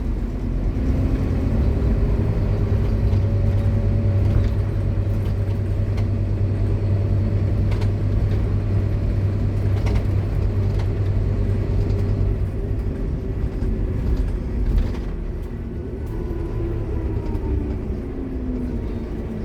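Scania K230UB Omnilink bus running, its engine giving a steady low drone with the whine of its ZF Ecomat automatic gearbox over it. In the last few seconds the tones fall in pitch and the sound eases off a little, with a few light rattles along the way.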